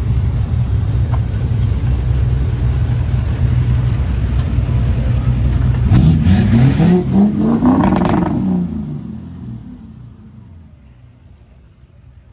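A car engine idling with a deep, steady rumble, then revving up with rising pitch about six seconds in. The rev is the loudest part; the sound then fades away over a couple of seconds, as if the car is pulling off.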